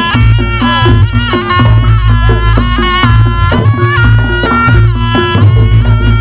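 Reog Ponorogo gamelan music: a slompret (double-reed shawm) plays a bending, nasal melody over drums and a repeating pattern of lower gong-chime notes.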